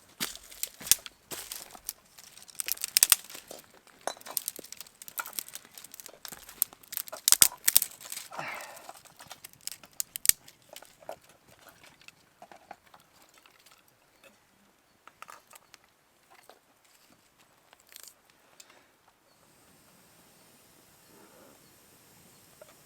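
Crinkling, rustling and sharp clicking handling noises, like packaging or gear being handled close by. They are dense and loud for the first ten seconds or so, then thin out to occasional faint clicks.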